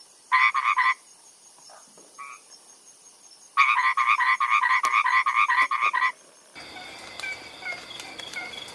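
Frog calling: a short burst of rapid pulsed croaks, then after a pause a longer run of about two and a half seconds at roughly five or six pulses a second.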